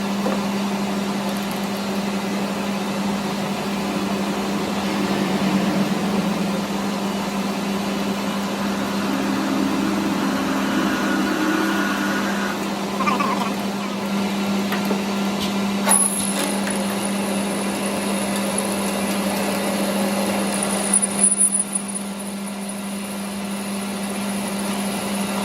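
Workshop machinery running with a steady low hum, joined by a thin high-pitched whine about two-thirds of the way through.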